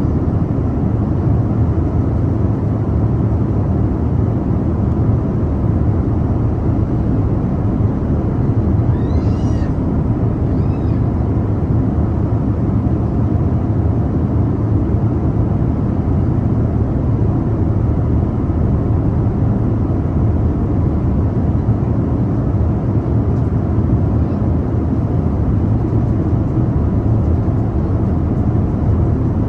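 Steady cabin noise of an airliner in flight: a constant even rumble, heaviest in the low end. About nine and eleven seconds in, two brief faint high-pitched squeaks rise over it.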